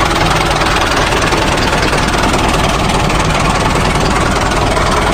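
An engine running steadily at idle, loud and even throughout.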